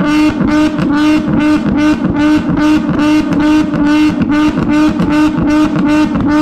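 A muscle car's V8 held against its rev limiter, the engine note cutting out and dropping back about three times a second in an even, repeating bounce. It is very loud.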